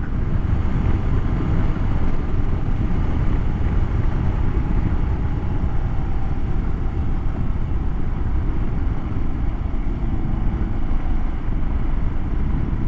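Motorcycle being ridden on a gravel dirt road: a steady rumble of engine, wind and tyres on gravel, heaviest in the low end.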